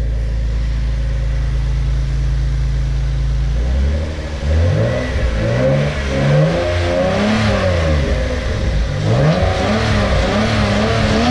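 Toyota Supra engine idling steadily, then from about four seconds in revved again and again, its pitch rising and falling with each blip of the throttle.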